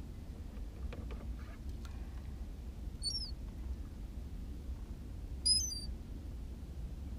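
Two short, high-pitched bird chirps over a steady low rumble: one about three seconds in, and a louder one of several quick notes about five and a half seconds in.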